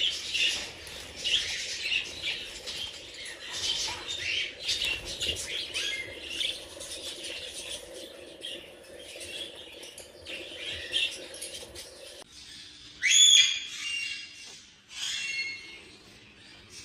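A flock of budgerigars chattering and chirping continuously. About twelve seconds in the steady background hum cuts off, and a louder single call rings out just after.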